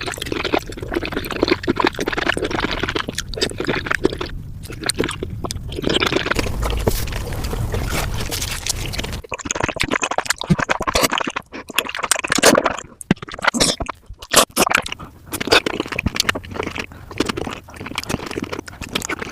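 Eating raw oysters, played back at double speed: a dense, irregular run of wet slurps and short chewing clicks.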